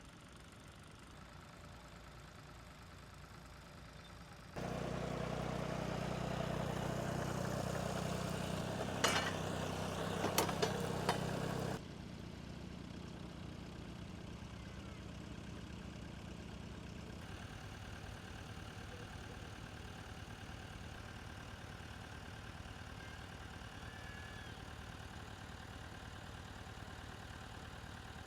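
Massey Ferguson 135 tractor engine running steadily. For several seconds in the middle it is much louder and nearer, with a few sharp knocks about halfway through.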